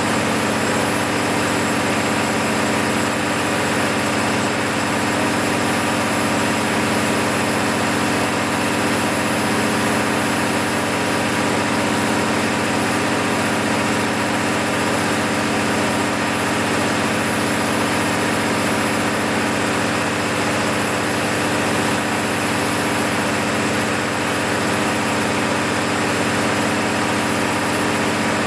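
Six-cylinder diesel engine of an MEP-006A 60 kW military generator set running steadily and evenly during a load test after a full rebuild.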